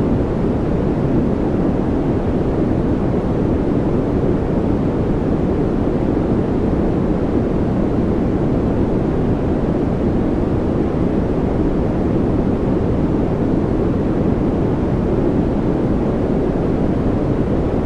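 A steady, unbroken noise track, heavier in the low and lower-middle range than true white noise: a deep, even rushing hiss with no change in level or pitch.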